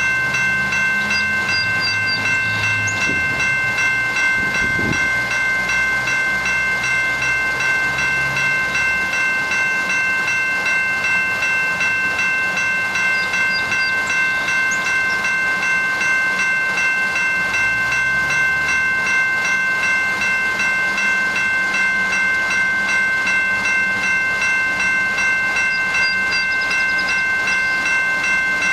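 GO Transit commuter train's diesel locomotive running at low speed, its low engine note shifting a couple of times. A steady high chord of several tones holds unbroken throughout.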